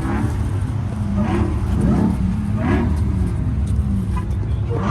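Car engine revved in repeated short blips, each a quick rise in pitch, about every second and a half, over the steady low rumble of idling engines.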